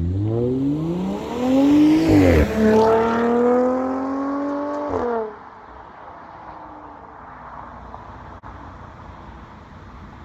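Audi S4's supercharged 3.0 V6 through an AWE Touring catback exhaust, accelerating hard with the pitch climbing, dropping once at a gear change about two seconds in, climbing again, then lifting off about five seconds in so the exhaust note falls away to a low background.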